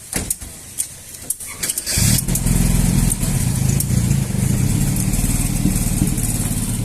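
A few clicks and knocks, then about two seconds in an engine starts and settles into a steady low running sound.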